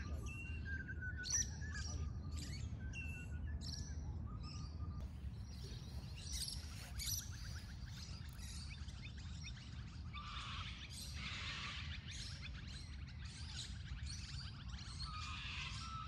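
Birds chirping and calling, with many short whistled notes throughout, over a steady low rumble.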